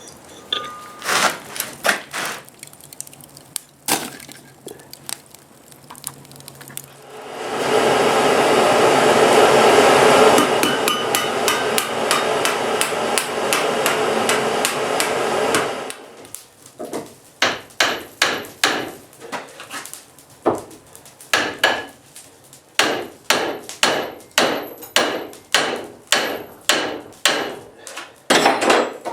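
Hammer blows on hot steel over an anvil: a few scattered strikes at first, then a steady run of about twenty ringing blows at nearly two a second in the second half. In the middle comes a loud, steady rushing noise lasting about eight seconds, the loudest sound in the stretch.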